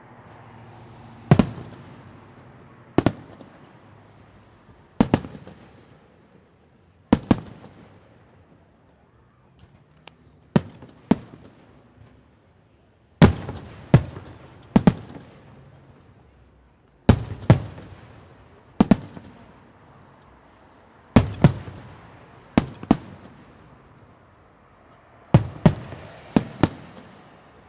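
Fireworks bursting overhead in a display: sharp bangs every second or two, some in quick pairs, each followed by a fading echo.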